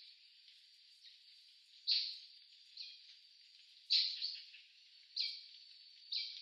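A bird calling: short high notes that drop in pitch, repeated about once a second.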